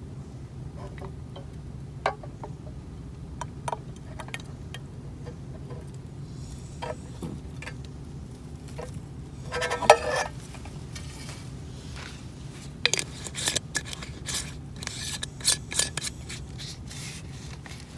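Camp cookware and utensils being handled: scattered light clinks, taps and scrapes, with a short ringing clatter about ten seconds in and a quick run of clicks near the end, over a steady low hum.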